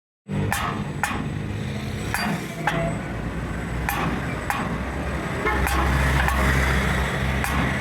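An engine running steadily with irregular sharp metallic knocks and clanks over it, about eight in all, typical of heavy-vehicle workshop work. The sound cuts in abruptly just after the start.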